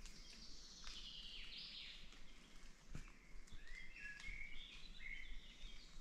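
Forest birds singing: a falling run of high notes in the first two seconds, then a phrase of short stepped notes in the second half, over a soft background hiss with a few faint knocks.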